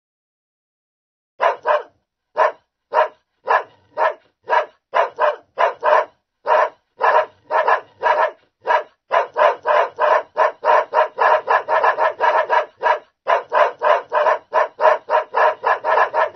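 Dog barking: a long run of short, repeated barks starting about a second and a half in, at first about two a second, then quicker at about three a second, with a brief pause near the end.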